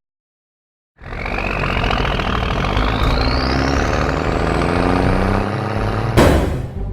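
Cartoon vehicle engine sound effect starting after a second of silence, with a whine rising steadily in pitch as it runs, and a short loud burst about six seconds in.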